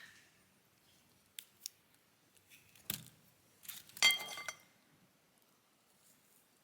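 A few sharp clicks, a knock, then a louder short clink with a brief ringing tone about four seconds in: small hard objects knocking together.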